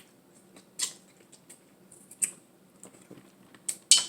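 Sharp wet clicks and cracks of a Dungeness crab shell being pulled apart by hand to get the meat out. There are a few scattered snaps, the loudest cluster near the end.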